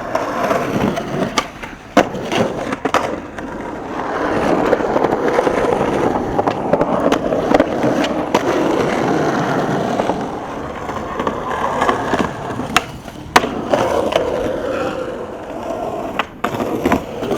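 Skateboard wheels rolling steadily on hard ground, broken by several sharp clacks of the board: pops, landings and impacts, the loudest a little after thirteen seconds in.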